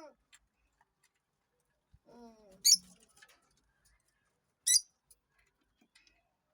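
Parrot giving a short pitched call, then two sharp, high squawks about two seconds apart. Faint scattered ticks come in between.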